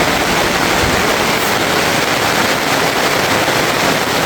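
Heavy rain falling, a loud steady rush with no breaks.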